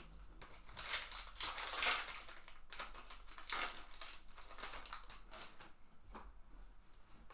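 Trading-card pack wrapper crinkling as baseball cards are handled, in a few short rustling bursts, the loudest about two seconds in.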